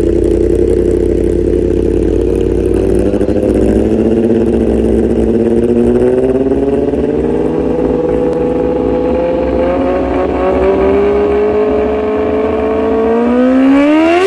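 Kawasaki ZX-10R's inline-four engine running through its exhaust. The revs hold steady, then climb slowly, then rise sharply in a quick rev near the end.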